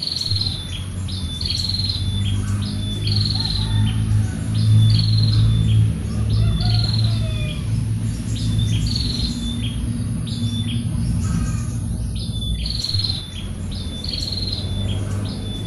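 A bird repeating a short, high, falling call about once a second, over a steady high insect buzz and a loud low hum.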